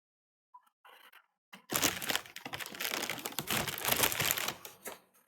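A dense crackling, rustling noise starts about two seconds in and lasts roughly three seconds, made of many rapid crackles, after a few faint ticks.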